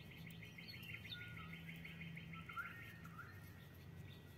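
Faint birdsong: a rapid high trill of many quick notes for the first two and a half seconds, then a few short separate chirps.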